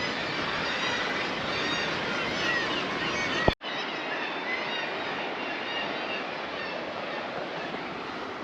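A seabird colony on the sea cliffs calling on and on, many short overlapping high calls over a steady rush of wind. A sharp click a little past three seconds in, where the sound cuts out for an instant.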